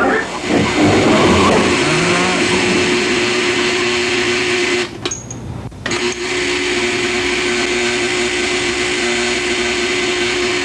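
A small electric motor running with a steady whir and hiss. It cuts out for about a second around the middle, then runs again.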